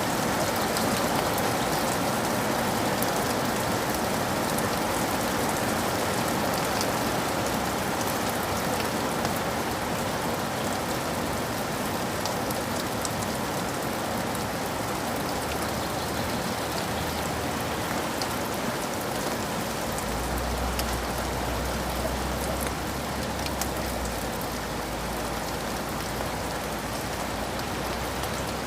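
Steady rain falling, a dense even patter with individual drops. From about two-thirds of the way in, a soft, deep rumble of distant thunder sits low beneath it for several seconds.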